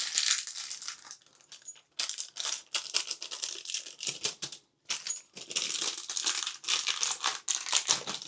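Plastic packaging of a toilet closet-bolt kit being handled and torn open: irregular crinkling and crackling, with small metal hardware rattling.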